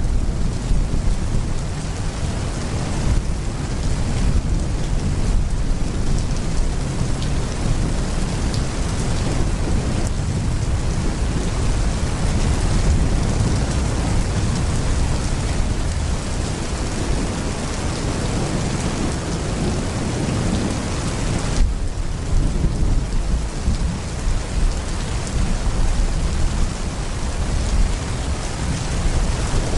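Heavy rain pouring steadily, with thunder rumbling low underneath throughout.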